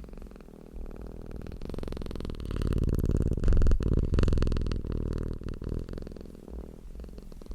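Domestic cat purring close to the microphone, a continuous low rumble that grows louder around the middle and then eases off.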